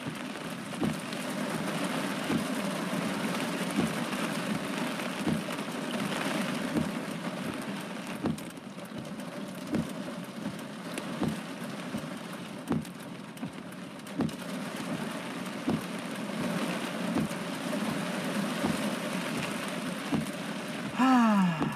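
Rain falling on a car during a severe thunderstorm, heard from inside the vehicle: a steady wash of rain with scattered heavier drops striking the roof and glass at irregular moments.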